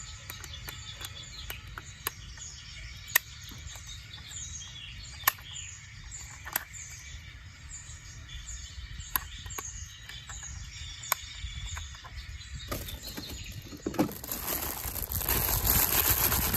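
A bird repeating short, high, falling chirps about once or twice a second, with scattered sharp clicks. Near the end a loud rough scraping or crunching noise takes over.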